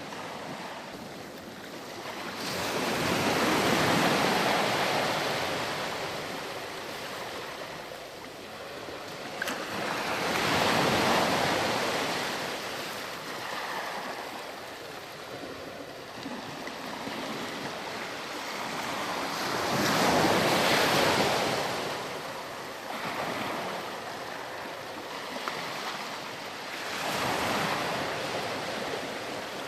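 Waves breaking on a sandy beach: surf rushing in and washing back, swelling about every seven to nine seconds, four times.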